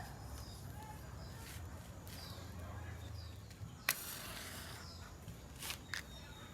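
Outdoor ambience: faint bird chirps over a low steady rumble, with one sharp click about four seconds in and two softer knocks near the end.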